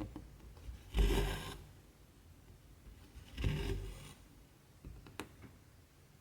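Cotton embroidery thread drawn through cross-stitch fabric with a rasp, twice, each pull about half a second long, followed by a couple of light clicks about 5 seconds in.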